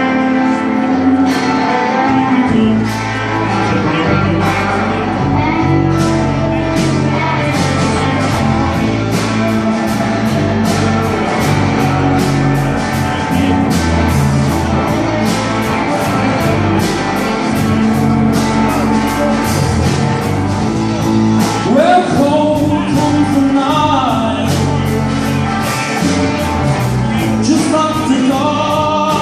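A live band playing a new blues-rock song: guitars over a steady beat, with the bass coming in about two seconds in. A voice starts singing in the last third.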